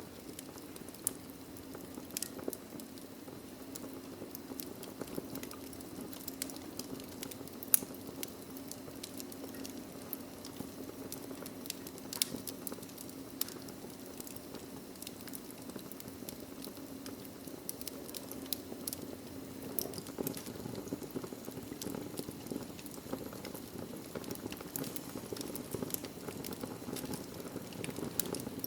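Wood logs burning in a fireplace: a steady low rush of flame with frequent irregular crackles and sharp pops, one louder pop about eight seconds in.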